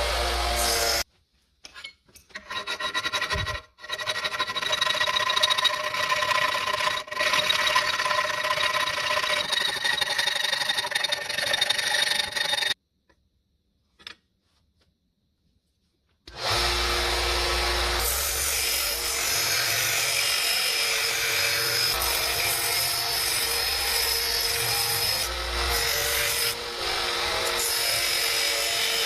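Power tool running steadily with a pitched motor whine, in several edited clips. Near-silent gaps fall about a second in and for a few seconds around the middle.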